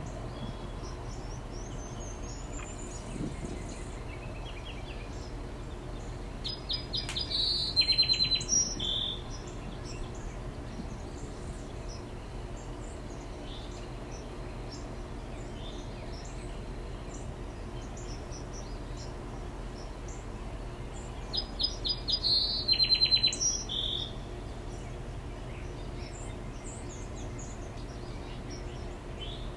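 A songbird sings two loud phrases about fifteen seconds apart, each a rapid trill of notes ending on a lower note. Faint chirps from other birds and a steady low background hum run beneath.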